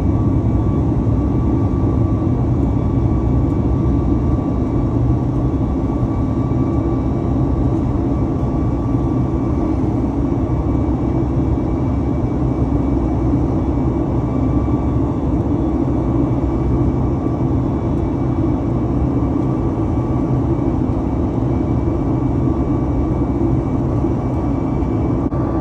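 Cabin noise of a Boeing 737 MAX 8 in flight during climb-out, heard from a forward first-class window seat: a steady low rumble and rush of air from its CFM LEAP-1B turbofan engines and the airflow, with a faint steady whine on top.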